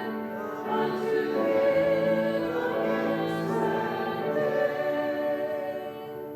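Congregation singing a hymn with instrumental accompaniment, the last notes held long at the end.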